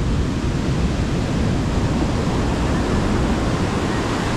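Sea surf washing onto the beach: a steady rushing noise with a heavy low rumble underneath.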